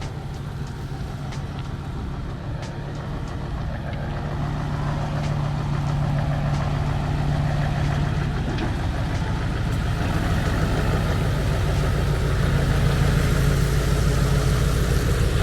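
Heavy truck engine running steadily with a low hum, growing gradually louder.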